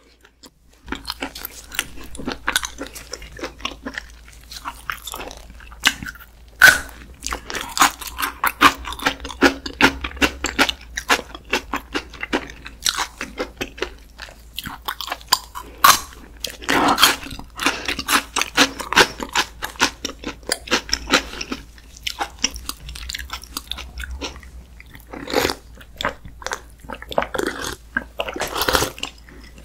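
Close-miked crunching and chewing of raw garlic cloves dipped in chili sauce: irregular crisp crackles and bites throughout.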